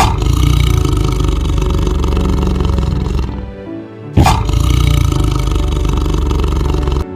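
A big cat roaring twice, each roar lasting about three seconds with a short pause between, over background music.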